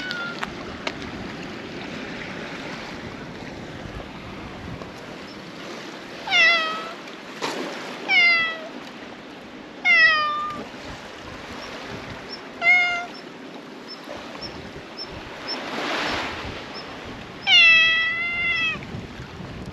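Cat meowing five times, a couple of seconds apart, each meow short and falling in pitch; the last, near the end, is longer and wavers.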